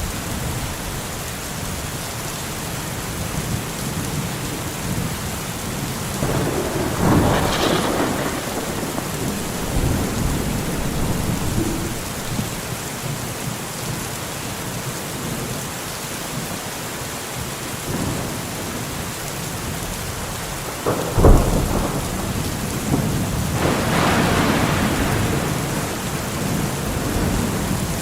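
Steady rain with thunder rumbling twice, about a quarter of the way in and again near the end. About three quarters of the way in comes a sharp crack, the loudest moment.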